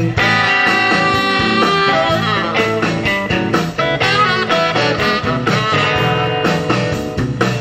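A band playing a blues-style song, with guitar prominent.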